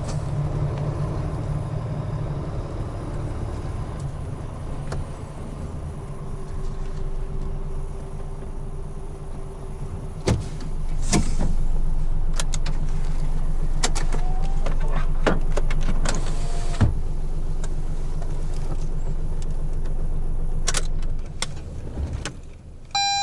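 Large truck's diesel engine running steadily, heard from inside the cab, with scattered clicks and knocks. The sound gets louder about ten seconds in and stays that way.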